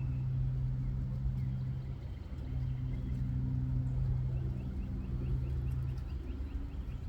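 An engine running steadily, a low hum that dips briefly about two seconds in and again near the end.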